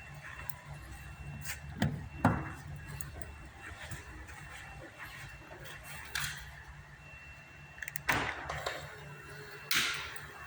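A few short knocks and clunks, the loudest about two seconds in and near the end, over a steady low hum.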